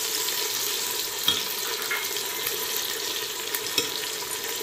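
Sliced onions and tomato sizzling in hot oil in a metal pot as they are stirred with a metal slotted spoon, with two light clicks of the spoon against the pot.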